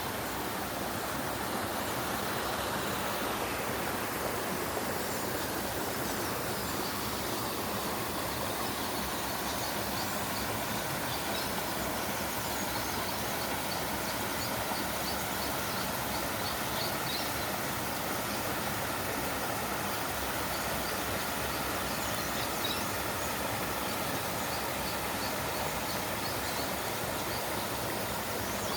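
Waterfall rushing steadily, with faint high chirps over it for a stretch in the middle.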